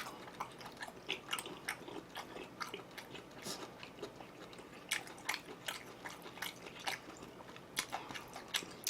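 A person chewing food close to the microphone, with soft irregular clicks, several a second.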